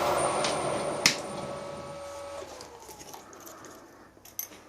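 Milling machine spindle running down after being switched off, its hum fading away and its pitch sagging as it coasts to a stop. A single sharp click about a second in, and a few faint ticks near the end.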